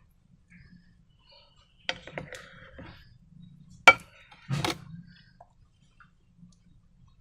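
Slime-making materials being handled: a few sharp clicks and taps, the loudest a single sharp click about four seconds in, followed by a short scraping burst.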